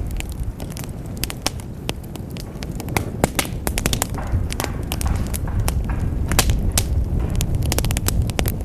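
Fire crackling in a fireplace: many irregular sharp pops and snaps over a steady low rumble of the flames.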